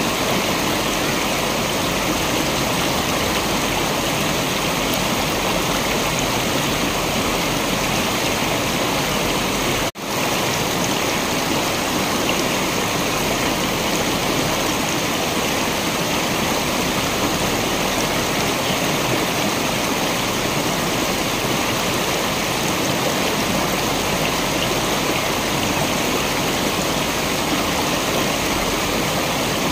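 Steady rushing water of a waterfall, a dense even roar. It cuts out for an instant about ten seconds in, then resumes unchanged.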